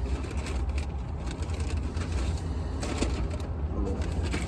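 Low steady rumble of a car, heard from inside the cabin, with a few scattered clicks and rustles; the sharpest comes about three seconds in.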